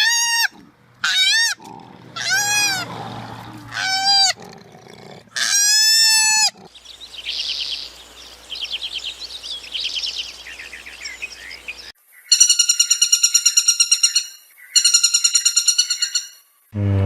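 A string of different animal calls. First comes a series of short rising-and-falling cries, then a stretch of rapid chattering, and from about twelve seconds in two long, high, pulsing calls.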